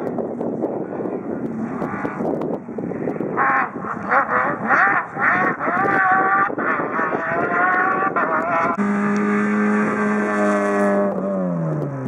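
Rally car engine revving hard, its pitch climbing and dropping in steps with gear changes. It then holds one steady pitch for about two seconds before the pitch falls away near the end.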